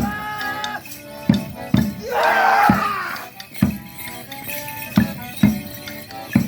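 Live folk dance band music: sustained reed-like chords over a heavy drum beat, with jingling throughout. A loud burst of wavering voices comes about two seconds in.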